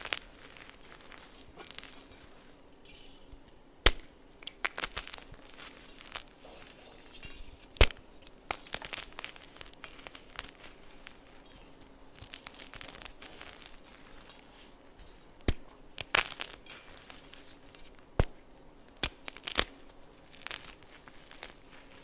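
Gym chalk being crushed: a continuous dry, crisp crumbling and crackling, broken by a sharp snap every few seconds as pieces give way.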